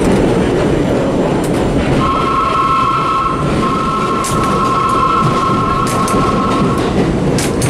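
On board an R32 subway car running into a station: a steady rumble with occasional clicks of the wheels. From about two seconds in until near the end, a steady high whine with two close pitches sounds over it.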